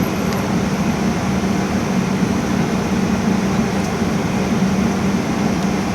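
Steady rush of an airliner cabin's air-conditioning and ventilation, with a constant low hum, aboard a parked Boeing 777-200ER during boarding.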